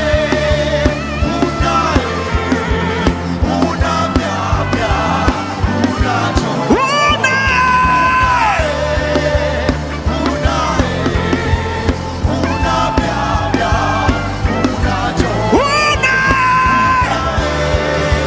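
Live gospel worship music: a steady bass and drum groove under long held notes that slide up and down in pitch.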